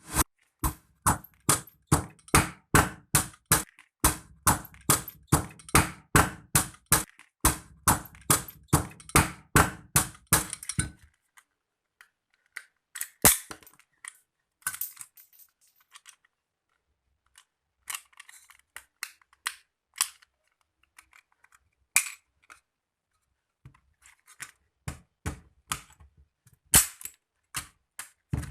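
Sharp plastic clicks of a computer mouse's buttons being pressed over and over, about three a second for roughly the first eleven seconds, then scattered single clicks.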